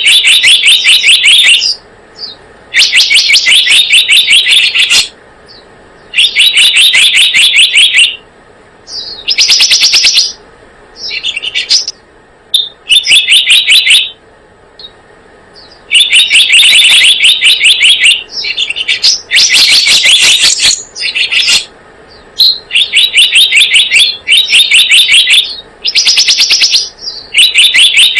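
Recorded song of the bird known in Indonesia as selendang biru, played as a trapping lure call. It comes as loud bouts of rapid, rattling chirps, each about two seconds long, repeated with short gaps.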